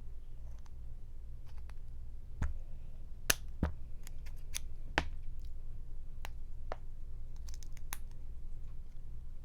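Kitchen scissors snipping and cracking crawfish claw shells: irregular sharp clicks and snaps, the loudest a few seconds in, over a steady low hum.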